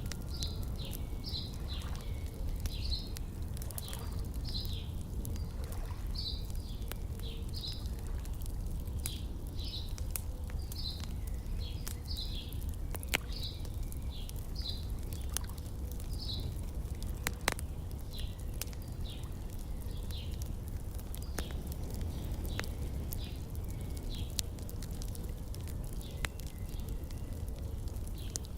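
Songbirds chirping over and over, short high chirps about once or twice a second that thin out in the last third, mixed with a wood fire crackling with occasional sharp pops over a steady low rumble.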